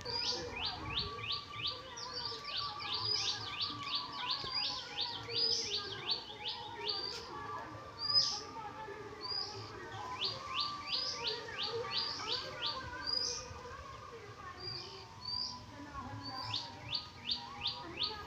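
Small birds chirping: quick runs of short, high, downward-sliding notes, about five a second, repeated with short pauses between runs.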